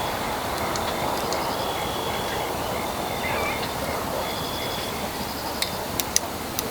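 Outdoor ambience: a steady breeze with birds calling in short repeated chirps, and a few sharp clicks near the end.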